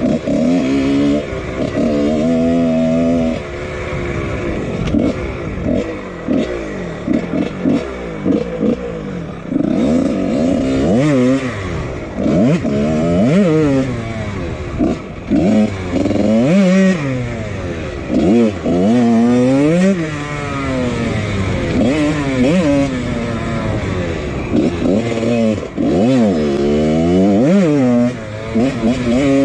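1999 Husqvarna CR125's two-stroke single-cylinder engine, fitted with a Pro Circuit exhaust, being ridden on a trail. It revs up and drops back again and again as the rider works the throttle and gears.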